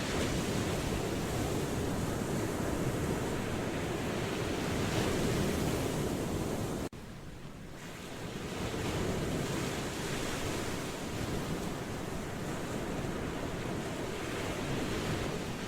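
Ocean surf washing in a steady rush. About seven seconds in the sound cuts abruptly quieter, then swells back up over the next couple of seconds.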